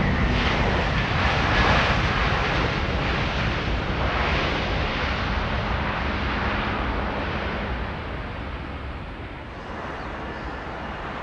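Jet airliner's engines running as the plane passes: a loud, steady rushing roar that fades away in the last few seconds.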